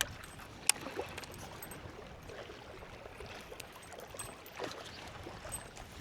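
Faint outdoor hiss of light wind, with a sharp click about a second in and a few fainter ticks.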